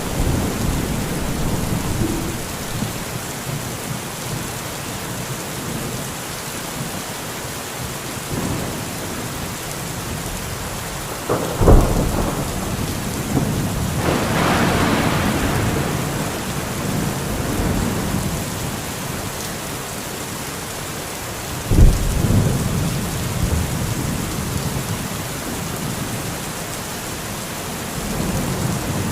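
Steady rain with rolling thunder. A sharp, loud thunderclap comes about a third of the way in and another about two-thirds in, each trailing off in a rumble, with a longer rumble swelling between them.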